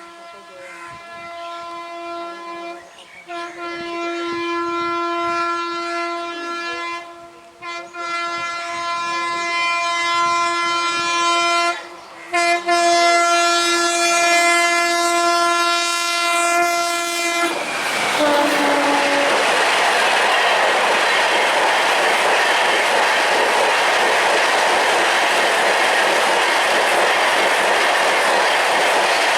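Indian Railways locomotive horn sounding long blasts with three short breaks as the train approaches. About 18 s in, the horn drops in pitch as the locomotive passes, and then the train goes by at speed with loud, steady wheel and rail noise and clickety-clack over the joints.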